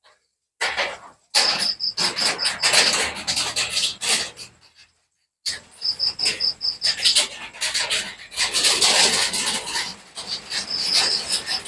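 An insect, cricket-like, chirping in quick pulsed trills that come and go three times, over loud crackling, rasping noise that starts and stops abruptly.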